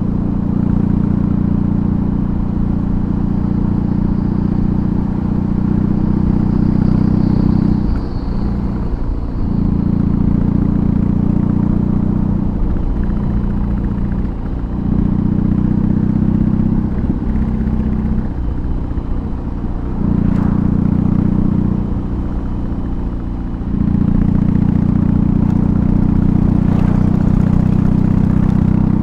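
BMW R18's 1802 cc boxer twin running under way through a custom exhaust. The engine note drops back several times and picks up again as the throttle is eased off and reopened.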